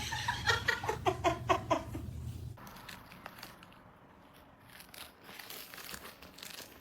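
A quick run of about eight short, pitched animal calls, one after another, over a low hum. It gives way to faint rustling and small clicks.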